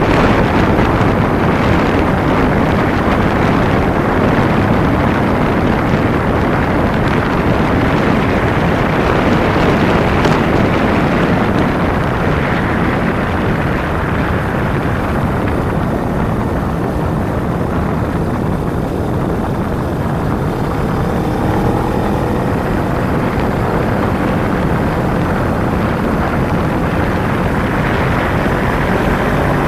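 Kawasaki Ninja 250 motorcycle riding at speed: wind rushing over the microphone, with the parallel-twin engine running underneath. The engine's pitch rises in faint glides in the second half.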